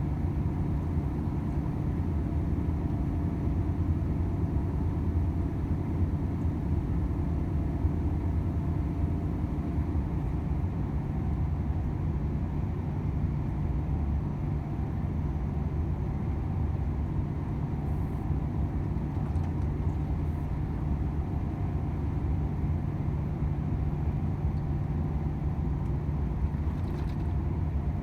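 Volvo FH 500 truck on the move: its 13-litre straight-six diesel gives a steady low drone under road noise, with no change in pitch.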